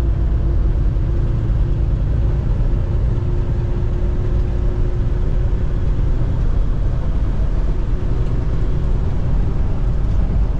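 Truck driving at road speed: a steady low rumble of engine and road noise, with a faint steady hum that fades out near the end.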